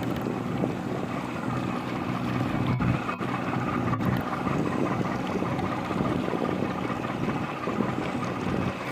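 The twin diesel engines of the Japan Coast Guard patrol boat CL-108 Aoi, running steadily with a low, even hum.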